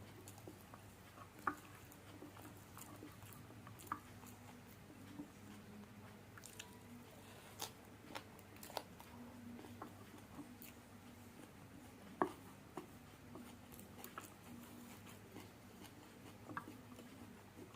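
Close-miked chewing of spicy fried noodles, with soft wet mouth sounds and a few sharp clicks, the loudest about a second and a half in and about twelve seconds in.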